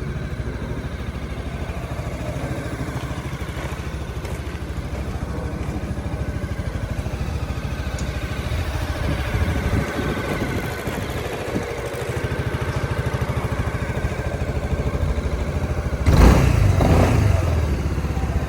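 Honda Forza MF10 scooter's single-cylinder 250 cc engine idling steadily. It swells slightly around ten seconds in, then turns suddenly louder for the last couple of seconds before easing off.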